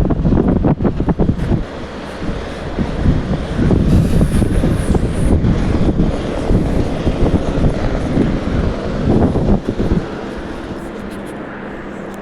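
Gusty wind buffeting the microphone with a loud, uneven rumble. About ten seconds in it eases, leaving a quieter, steady low hum.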